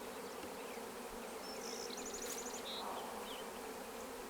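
A honeybee colony buzzing steadily around an opened hive as its frames are worked, a continuous hum.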